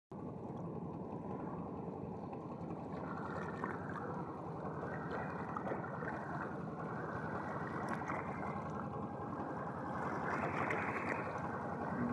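A fishing boat's engine running steadily, with the wash of water alongside, getting slightly louder near the end.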